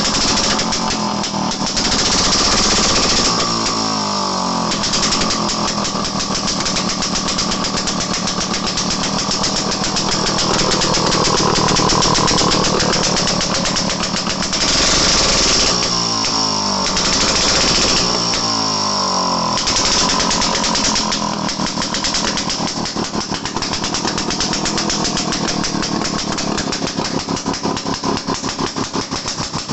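Daihatsu Midget DKA's single-cylinder two-stroke engine running with a fast popping beat and revved up and down several times, briefly louder on each blip of the throttle, after its piston rings were reworked.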